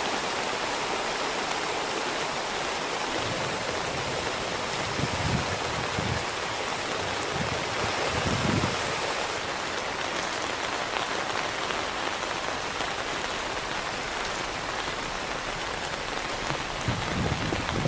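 Heavy rain falling steadily, with a few short low rumbles; the last one, near the end, is thunder.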